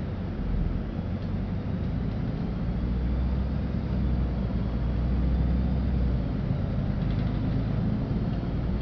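LiAZ-5292.65 city bus driving, heard from inside the passenger cabin: a steady low engine drone with road rumble, the low hum a little stronger in the middle.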